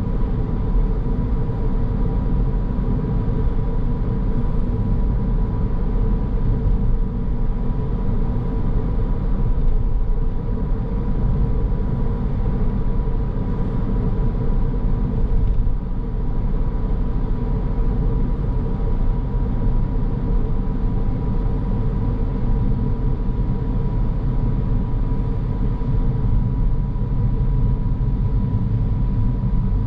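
Car driving along: steady low rumble of the engine and tyres on the road, with a faint constant high whine.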